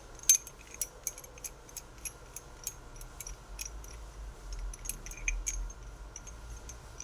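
A series of light, sharp clicks, about three a second, uneven in strength, with a faint low rumble through the middle.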